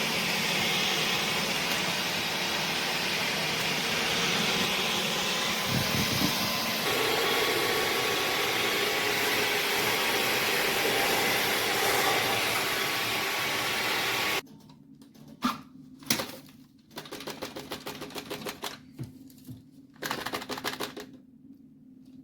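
Dyson Gen5outsize cordless stick vacuum running with a steady whooshing motor and airflow noise, then switching off suddenly about two-thirds of the way through. A string of irregular clicks and light rattles follows.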